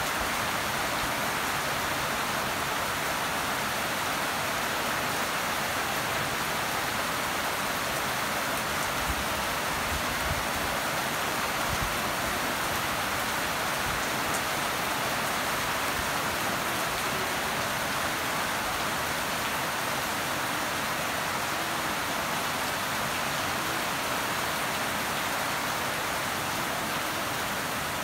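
Steady rain falling on a garden of wet, leafy plants, an even hiss of drops that neither builds nor eases.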